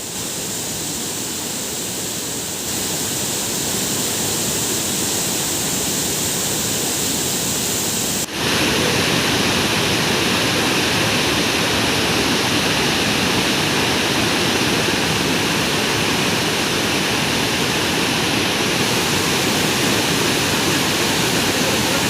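Waterfall: the steady rush of falling water, jumping louder at an abrupt cut about eight seconds in.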